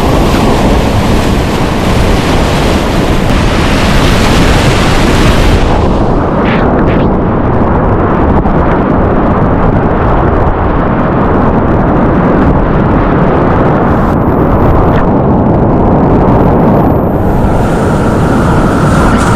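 Loud, steady rushing of whitewater in a river rapid, heard close up; the roar turns duller about six seconds in.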